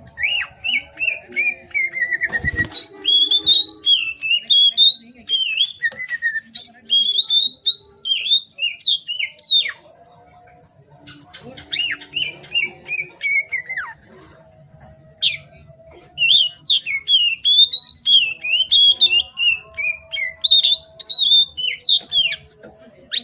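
Oriental magpie-robin singing long runs of quick, varied whistled phrases, with two short pauses in the middle. A steady high whine sounds underneath, and there is a single sharp knock early on.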